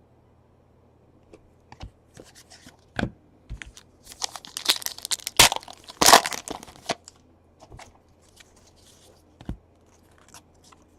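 A baseball card pack wrapper torn open and crinkled, the loudest tearing in the middle, with scattered clicks and rustle of cards being handled before and after.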